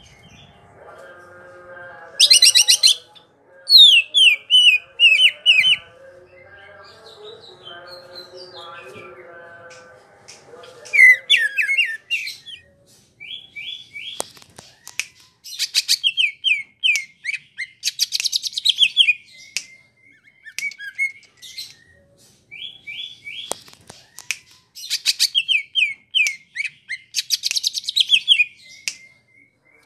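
Greater green leafbird (cucak ijo) singing in a long, continuous run: repeated bursts of sharp, very high notes and short, quick descending trills, starting about two seconds in. A fainter, lower warbling sits under the song through the first third.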